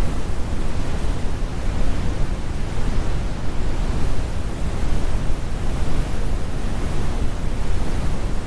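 Steady, computer-generated brown noise: an even, deep rumbling hiss with most of its weight in the bass and little treble.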